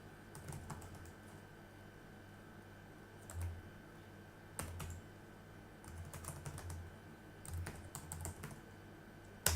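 Computer keyboard typing in short scattered bursts of key clicks, with a sharper, louder keystroke near the end, over a faint steady hum.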